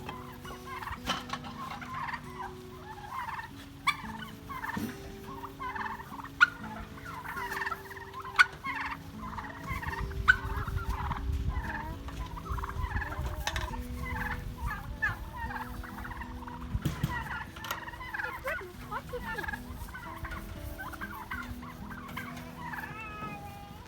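A flock of turkeys calling, with many short overlapping calls, over soft background music of held notes. A few sharp knocks stand out in the first half.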